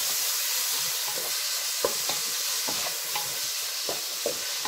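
Shelled bitter field beans (kadve vaal) frying in oil with onion, giving a steady sizzle. A wooden spatula turns them in the pan, with scattered scrapes and knocks against the pan.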